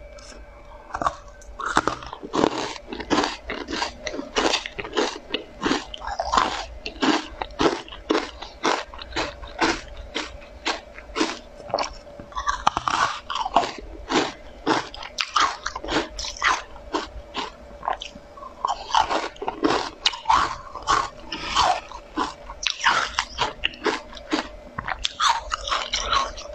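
Close-up crunching and chewing of crisp pink spoon-shaped cookies: many sharp crunches in quick succession as pieces are bitten off and chewed.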